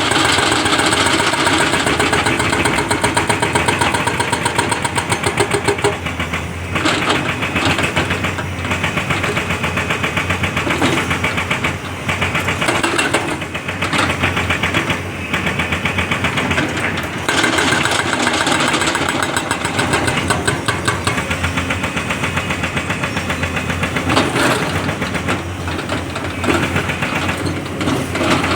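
An excavator's diesel engine running with a fast, even pulse. Its level rises and falls every few seconds.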